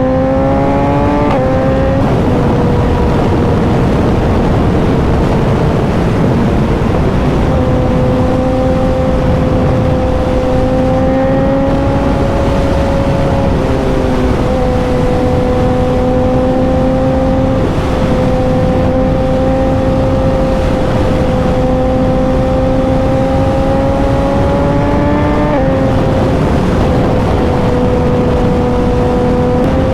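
Suzuki motorcycle engine under way, its pitch climbing and then dropping sharply at a gear change about a second in. It then holds fairly steady with small dips and slow rises, and climbs again before another sharp drop near the end. A steady rushing noise runs underneath.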